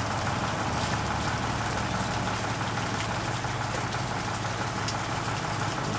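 Heavy engine idling steadily, a constant low hum under an even hiss.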